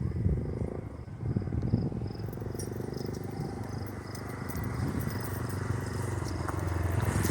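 A car engine running with a low rumble that grows louder toward the end, while crickets chirp in a steady pulsing rhythm.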